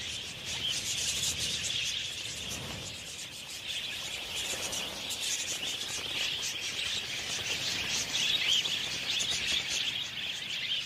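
A large flock of budgerigars chirping and chattering continuously, many short calls overlapping.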